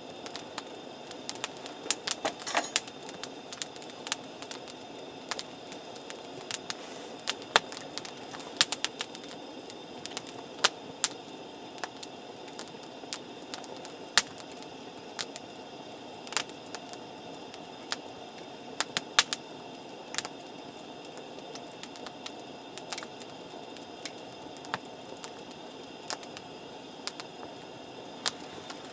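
Wood campfire crackling, with irregular sharp pops and snaps over a low steady hiss, a quick cluster of louder pops about two seconds in.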